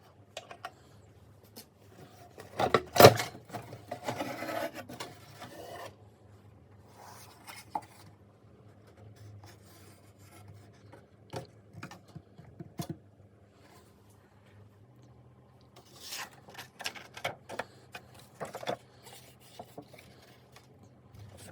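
Handling noises: objects being rubbed and scraped, with scattered clicks and a loud knock about three seconds in, followed by a few seconds of rustling. A faint steady low hum runs underneath.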